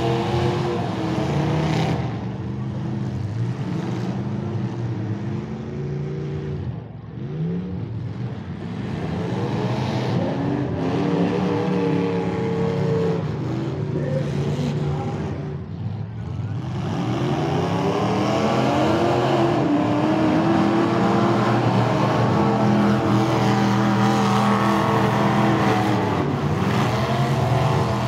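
Several demolition derby cars' engines running and revving hard together, their pitch rising and falling as drivers accelerate and back off. The engines ease off briefly twice, then run louder through the second half.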